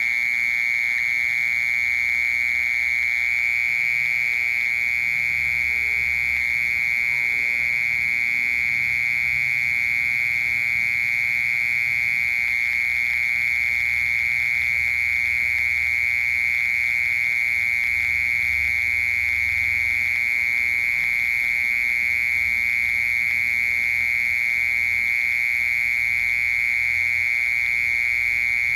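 A cricket singing one continuous, high-pitched trill that goes on without pause.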